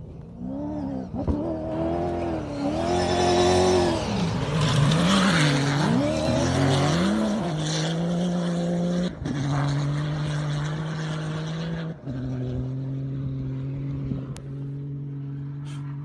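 Dakar rally car passing at speed, its engine note rising and falling through gear changes. After about eight seconds it settles into a steady drone.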